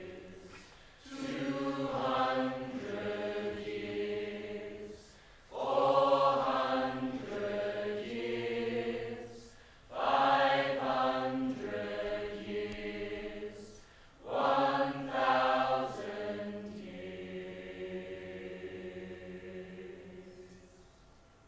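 Choir singing long held chords without words, in four phrases that each come in loudly and then die away; the last fades out near the end.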